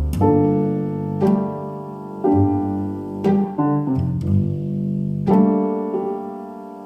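Soft piano music, with chords struck about once a second and a few quicker notes around the middle.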